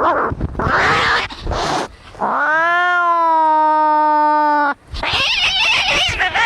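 Angry cats fighting: harsh, noisy screeching cries, then one long drawn-out yowl of about two and a half seconds that rises at first and then holds steady, followed by harsher, higher screeches.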